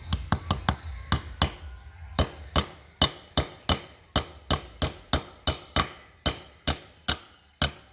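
Hammer striking metal in a steady run of sharp, ringing blows, a quick flurry at first and then about two or three a second.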